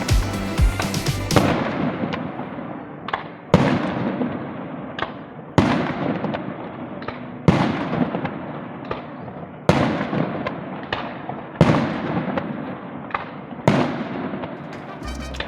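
Fireworks going off in a steady sequence, about one every two seconds: each a small pop followed about half a second later by a loud bang that trails off over a second or more.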